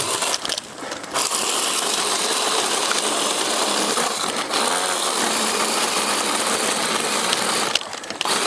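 Power saw running and cutting through brush, stopping briefly twice, about half a second in and near the end.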